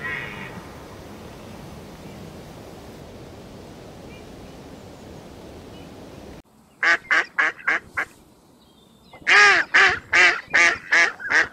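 Steady background hiss, then waterfowl calling in runs of short, harsh calls: four quick ones, a brief pause, then about seven louder ones.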